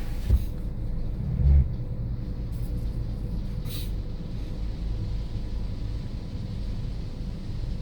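Steady low rumble of an automatic car wash running as the car is pulled through in neutral, with two dull thumps in the first two seconds and a short hiss about four seconds in.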